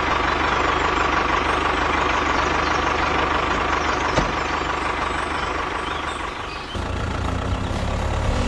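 Engine running steadily, changing suddenly about seven seconds in to a deeper, evenly pulsing idle.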